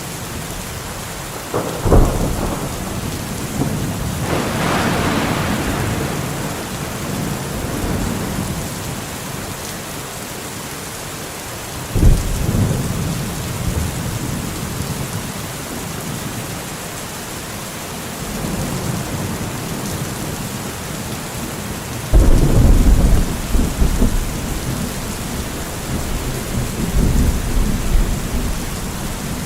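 Steady rain falling through a thunderstorm. Three sharp thunderclaps come at roughly ten-second intervals, each trailing off into a long low rumble, and the last rumble is the loudest and longest.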